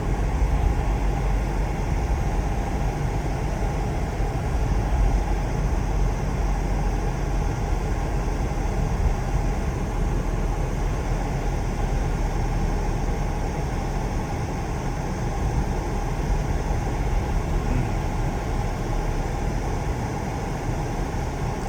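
Steady in-cabin noise of a car being driven: low engine and road rumble, with the heater blower running to demist the windshield.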